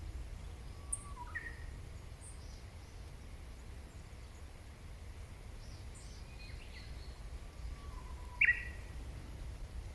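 Wild birds calling sparsely: a few short whistled calls, the clearest about a second in and a louder one near the end, with faint high chips between them, over a steady low background rumble.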